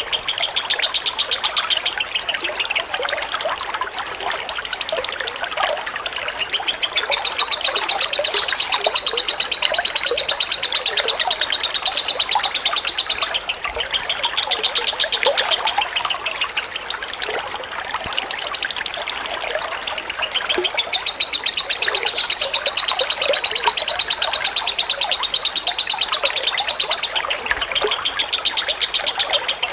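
Lovebird singing a long, fast chattering trill (the 'ngekek' style), with only brief breaks, over trickling water.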